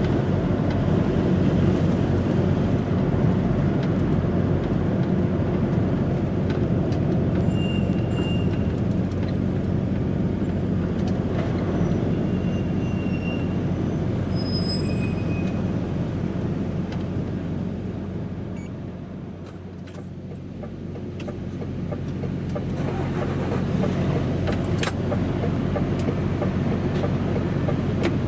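DAF XF105.460 truck's engine and road noise while driving: a steady low drone that eases off for a couple of seconds about two-thirds of the way through, then builds back up.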